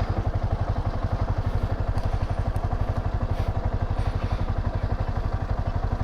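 Motorcycle engine running at a steady low speed, with an even, rapid beat of about twelve pulses a second.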